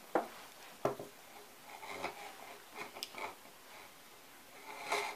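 Scattered light clicks and knocks, roughly once a second, with faint rustling, as of small parts and tools being handled.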